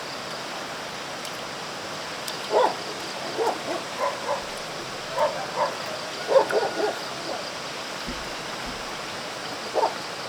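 Short animal calls, one at a time or in quick runs of several, over a steady high background hiss.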